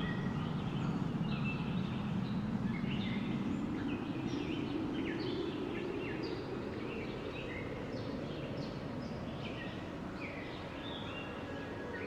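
Steady rushing wind with many small birds chirping over it, mostly short chirps that drop in pitch, several each second.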